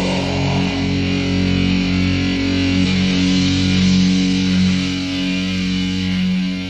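Death metal music: distorted electric guitar and bass holding long, ringing chords.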